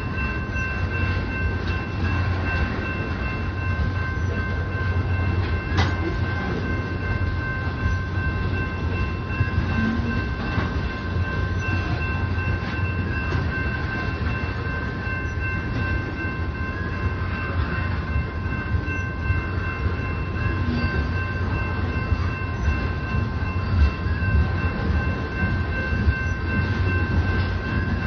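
A Union Pacific oil train rolling past, a steady rumble of wheels on rail with several constant high tones held over it. There is one sharp click about six seconds in.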